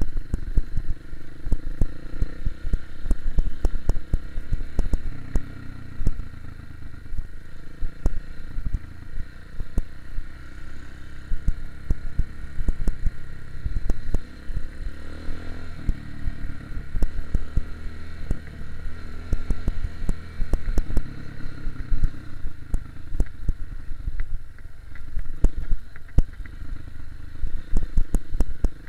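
KTM 250 EXC-F four-stroke single-cylinder enduro motorcycle being ridden off-road, its engine running and revving up once about halfway through, with constant clattering knocks from the bike over rough ground.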